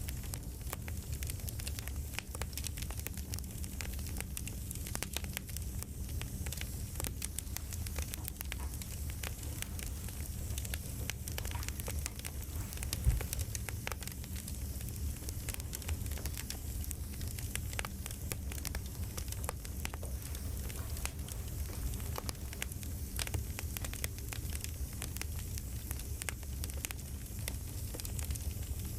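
Campfire crackling: a steady low rumble under dense, scattered small pops, with one sharper pop about 13 seconds in.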